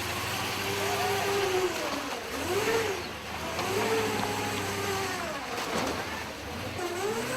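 Dodge M37 truck's engine revving up and falling back again and again, about four or five swells, over a steady low drone as it works through the obstacle.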